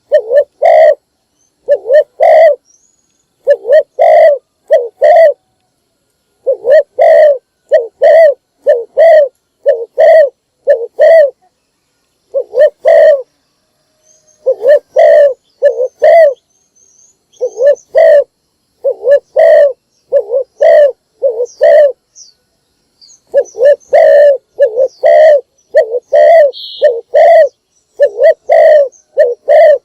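Spotted dove cooing over and over, loud and close: groups of a few short coos with brief pauses between. It is a decoy bird's call, used to lure wild doves.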